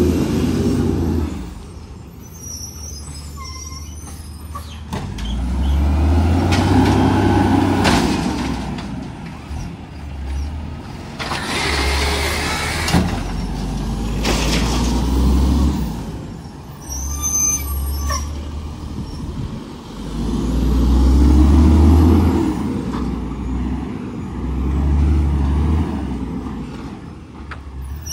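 Garbage truck's engine revving up and settling back several times. There is a burst of air-brake hiss about twelve seconds in and a brief high squeal around seventeen seconds.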